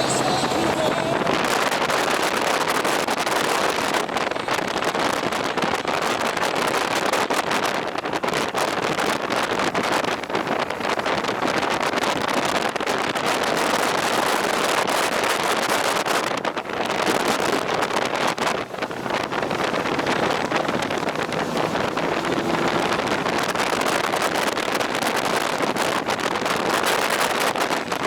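Wind rushing over the microphone while riding: a steady, loud rush with a few brief dips.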